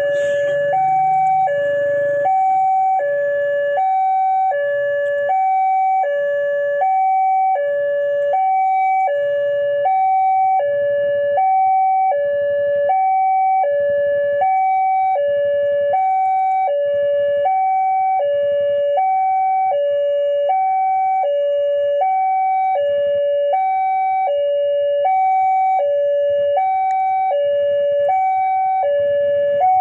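Railway level-crossing warning alarm sounding: an electronic two-tone signal alternating high and low about once a second, the signal that a train is approaching the crossing.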